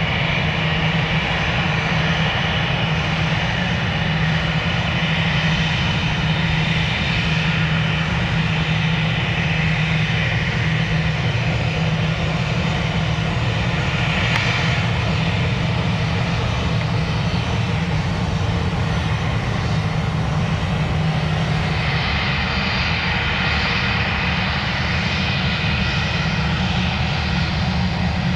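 Airliner engines running steadily: a high whine over a low hum, the whine shifting a little about three-quarters of the way through.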